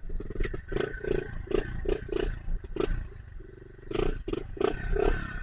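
Dirt bike engine revved in short repeated bursts, about three a second, easing off for a moment in the middle, as the bike struggles for grip in mud.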